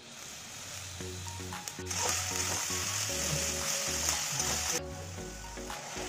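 Diced vegetables sizzling as they are stir-fried in a steel wok, with a spatula stirring and scraping against the pan. The sizzle is loudest from about two seconds in until nearly five seconds, then drops back. Background music with a steady beat plays throughout.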